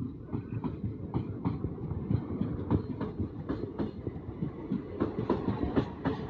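Passenger train hauled by a WAP-4 electric locomotive running past at speed: wheels clicking over rail joints in a quick, even rhythm of about three clicks a second, over a steady low rumble.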